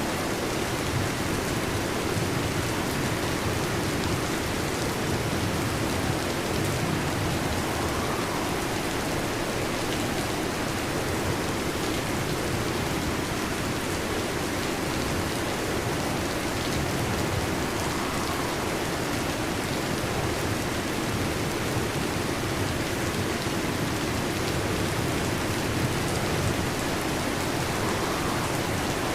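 Steady rain falling, an even, unbroken hiss with no thunder clap heard.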